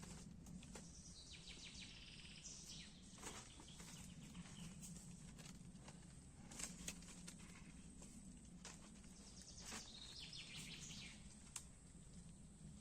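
Faint bird song in the open woods: two short trilling phrases, about a second in and again near ten seconds, over a low steady hum and scattered light clicks.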